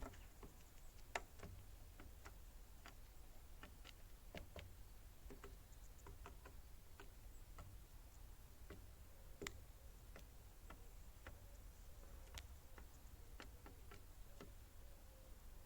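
Faint, irregularly spaced clicks and taps over a low hum, with a sharper click about a second in and another about nine and a half seconds in.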